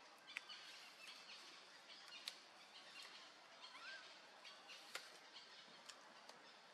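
Faint outdoor ambience with scattered short bird chirps and one brief rising call, and a few sharp clicks.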